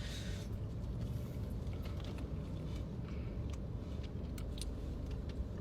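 Close-up chewing of a burger, with scattered small wet mouth clicks, over a steady low rumble.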